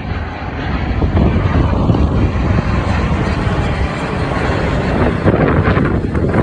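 Airliner passing low overhead on final approach to land, its jet engines giving a loud, steady rumble.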